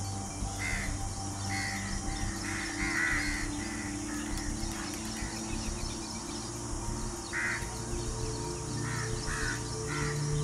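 Birds cawing in short repeated calls, several in the first few seconds, then a pause, then more near the end, over background music of steady held low notes.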